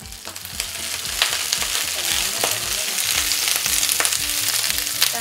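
Chinese kale stir-frying in hot oil in a frying pan. The sizzle rises over the first second and then holds as a steady hiss, and a spatula knocks against the pan a few times.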